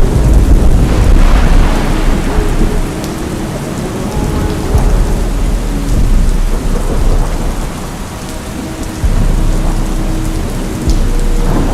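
Steady heavy rain with rumbling thunder, laid over the held low bass notes of a slowed-down, reverb-heavy song.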